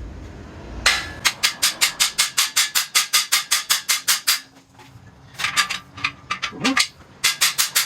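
Hammer striking a cam bearing installer tool, driving a new cam bearing into the cam journal of a 6.0 LQ4 V8 block. A quick run of sharp blows at about six a second, a short pause, then two shorter runs of blows.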